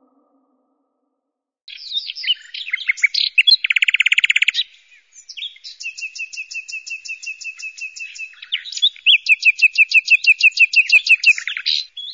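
Birds singing, starting about two seconds in: a mix of high chirps, a short buzzy rapid trill, then long runs of quick repeated notes, several a second.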